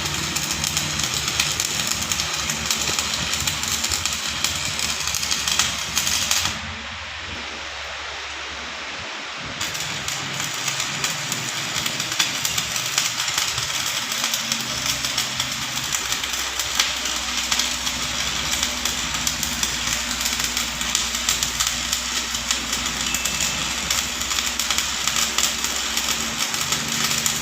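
Electric arc welding crackling steadily over a low machine hum. The arc stops for about three seconds, a quarter of the way in, then strikes again.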